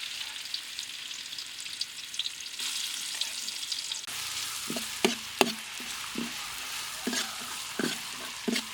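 Food sizzling in hot oil in a pan, just after salted chili goes in; the hiss is steady throughout. From about halfway a cooking utensil knocks and scrapes against the pan about ten times as the food is stirred, each knock ringing briefly.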